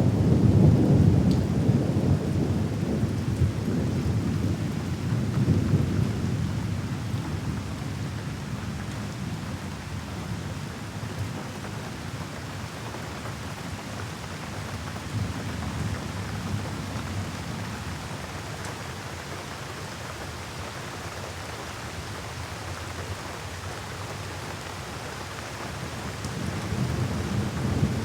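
Steady rain falling with rolling thunder: a long low rumble at the start that dies away over the first several seconds, then rain alone, and a new rumble building near the end.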